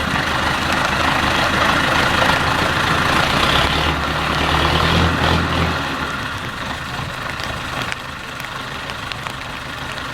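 IFA W 50 truck's diesel engine working hard, loudest and deepest about four to six seconds in, then easing off to a quieter, steady run.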